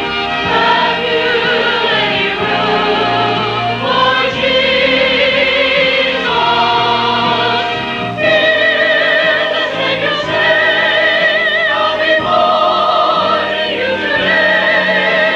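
Church chancel choir singing a Christmas cantata, many voices holding notes with vibrato that change every second or two, heard through an old VHS tape recording with dulled highs.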